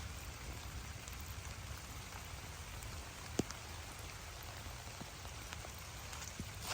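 Steady rain falling on a garden, with scattered individual drops tapping close by; one sharp drop hits about three and a half seconds in.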